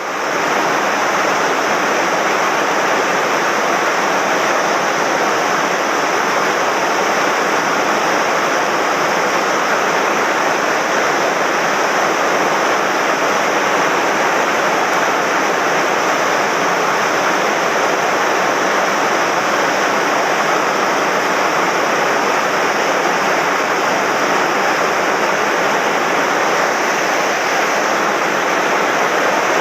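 Swollen mountain stream rushing steadily, running high and fast after heavy rain.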